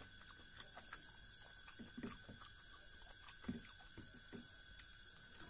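Faint chewing and small wet mouth sounds of a person eating fish curry by hand, with a few soft clicks over a steady low hiss.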